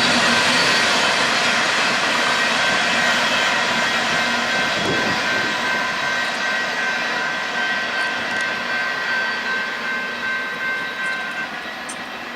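Union Pacific intermodal freight train rolling past and moving away, its noise fading steadily, with a faint steady high squeal over the rolling sound.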